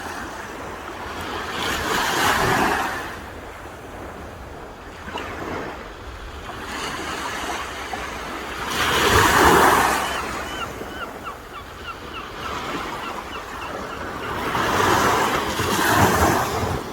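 Sea waves breaking on the shore. The rushing swells up and dies away three times, roughly every six to seven seconds.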